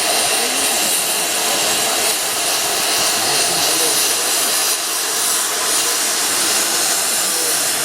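Narrow-gauge steam locomotive letting off steam: a loud, steady hiss with no chuffing rhythm.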